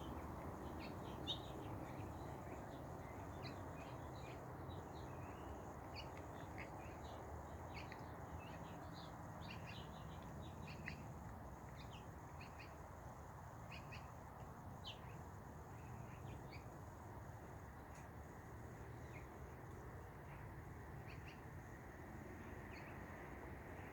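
Small birds chirping, many short high calls coming thick in the first half and thinning out after, over a steady low background rumble.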